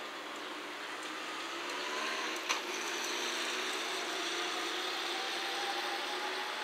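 EF210 electric locomotive hauling a container freight train approaching, its running noise growing louder about two seconds in, with a faint whine slowly rising in pitch. A single sharp click about midway.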